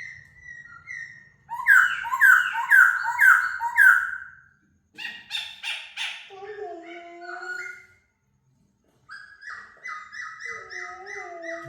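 Laughingthrush singing: a loud run of about five repeated descending notes about two seconds in, then varied whistles and lower warbling notes, a pause of about a second, and a fast run of repeated notes near the end.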